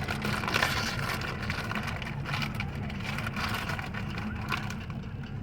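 An engine running steadily on the water, a low even drone.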